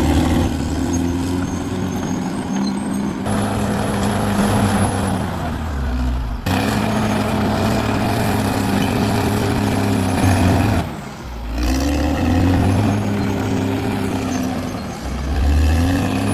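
Caterpillar D6R XL bulldozer's diesel engine working, its pitch dipping and climbing again several times as the load changes, with a few abrupt breaks in the sound.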